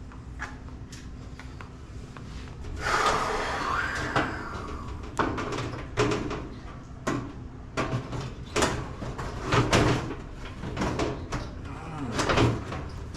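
Irregular knocks and clunks of metal appliance parts and panels being handled during dryer repair work, with a longer scraping noise about three seconds in.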